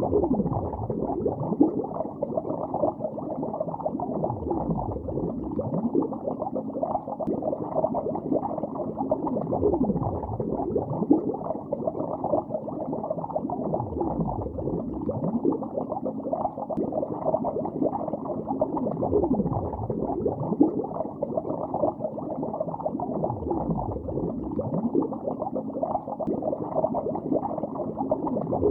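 Underwater bubbling and gurgling, steady and muffled with no treble, full of short bubble pops. A deep whooshing sweep that falls and rises again recurs about every four to five seconds.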